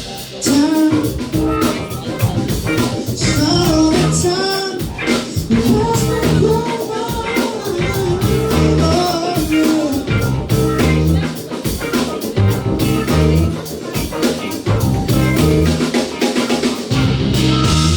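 A live band playing a rock and soul cover, with a lead vocal over electric guitar, bass and a steady drum-kit beat.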